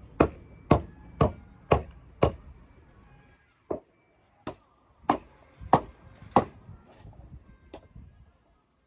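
Firewood being chopped: a run of sharp blade strikes on wood about two a second, then a short pause and another, less even run of strikes.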